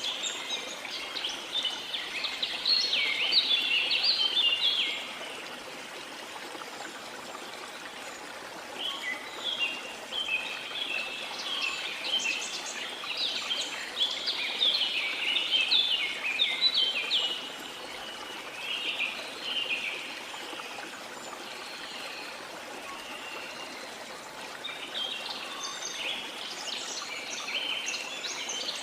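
Steady rush of a waterfall under tropical rainforest birdsong. The birds sing in spells of rapid, chattering high notes, stopping for a few seconds about a fifth of the way in and again a little past two-thirds of the way through, while the water runs on unchanged.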